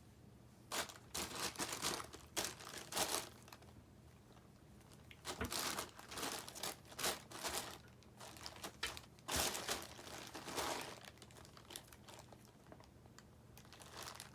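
Crinkly packaging crackling and rustling in irregular bursts as a cat plays with it, with pauses in between.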